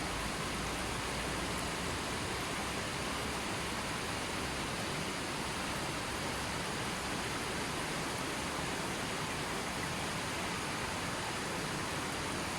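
Steady, even rushing of water, a continuous hiss with no single splashes or drops standing out.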